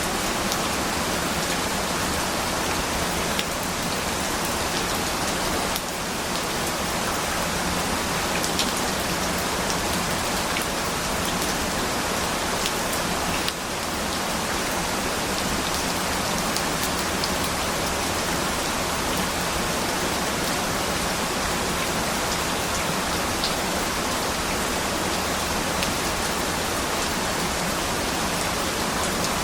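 Steady rain falling on a surface, an even hiss with scattered individual drop ticks; the level dips briefly twice.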